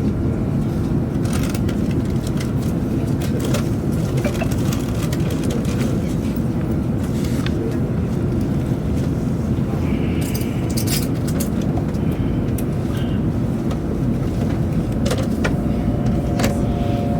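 Steady low rumble and rush of a Chinese high-speed train running at speed, heard inside the passenger car, with scattered light clicks and rattles. A faint steady tone comes in near the end.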